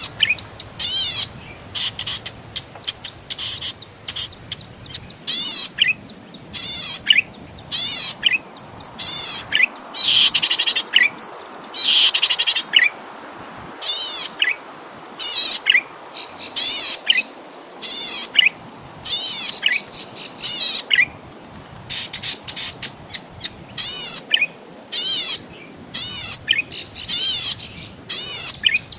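Cici padi (zitting cisticola) singing: repeated bursts of rapid, high, sharp chirps with short pauses between them.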